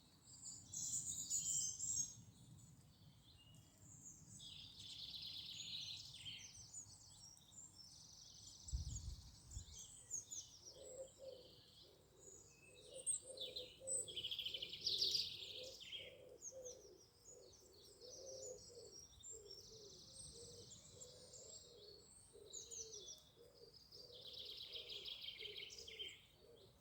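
Several songbirds singing in overlapping phrases of quick high notes. From about a third of the way in, a low call repeats under them. There is one brief low thump about a third of the way in.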